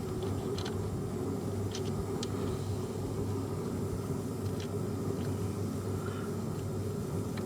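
A steady low mechanical hum with a few faint light clicks over it.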